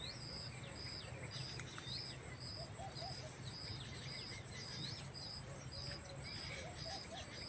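Faint birdsong: a short high chirp repeated about twice a second, with a few falling call notes mixed in, over a low steady hum.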